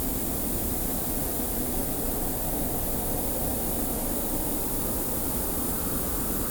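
Steady desert wind, a low rushing with a constant high hiss of blowing sand over it.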